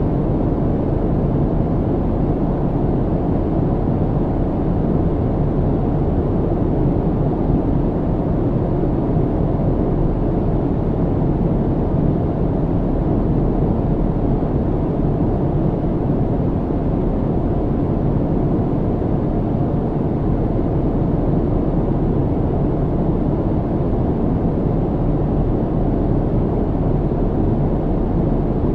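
Airliner cabin noise in cruise: a steady, even low rumble and hiss of engines and airflow, with a faint steady hum, unchanging throughout.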